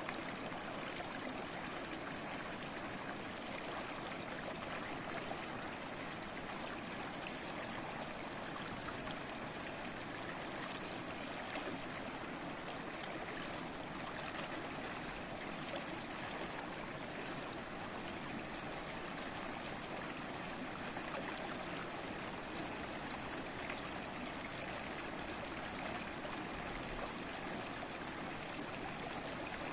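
Small stream babbling and trickling, a steady even rush of running water.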